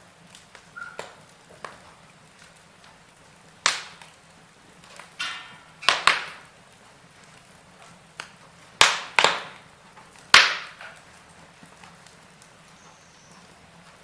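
Wood fire in a fireplace crackling, with about half a dozen sharp, loud pops at irregular intervals, some in quick pairs, over a faint steady hiss.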